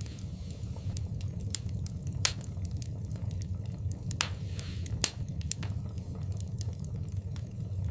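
Wood fire in a fireplace crackling, with scattered sharp pops over a steady low rumble; the two loudest snaps come about two and five seconds in, and a brief hiss comes just after four seconds.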